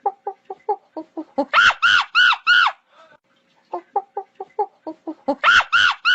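Hen cackling: a quick run of short low clucks, then four loud drawn-out squawks, and the whole pattern again.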